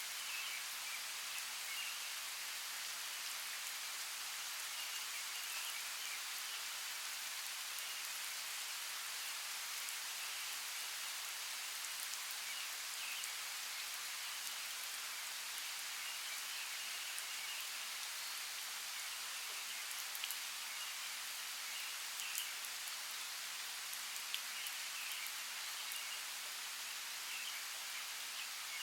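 Steady rainforest rain: an even hiss of falling rain, with a few sharper single drops landing in the second half and faint high chirps scattered through it.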